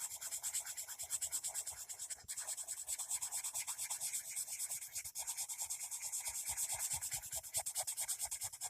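Coloured pencil scribbling on paper in quick, even back-and-forth strokes, several a second, with a brief pause a little over two seconds in.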